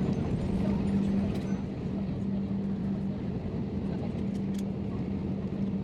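Airliner cabin noise aboard an Airbus A321neo: a steady rumble of engines and airflow with a constant low hum that drops out briefly a few times.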